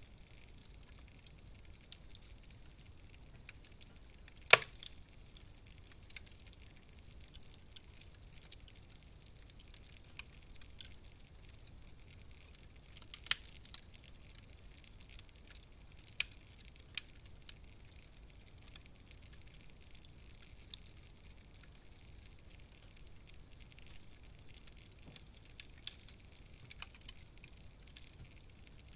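Wood fire crackling in a fireplace: a soft steady hiss with scattered sharp pops and snaps, the loudest about four and a half seconds in.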